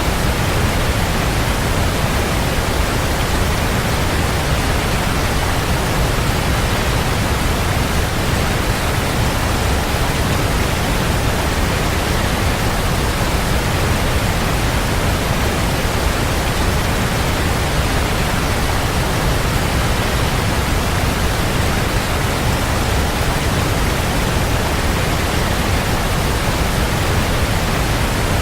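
Waterfall: a steady, dense rush of falling water, heaviest in the low end, with no change in level.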